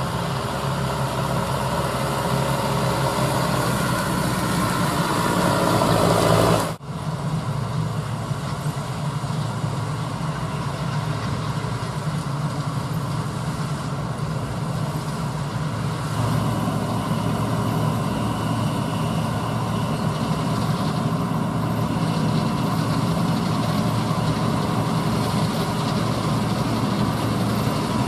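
Diesel engines of large harvest machinery running steadily. The sound breaks off abruptly about seven seconds in and resumes, and the low engine drone grows stronger about sixteen seconds in.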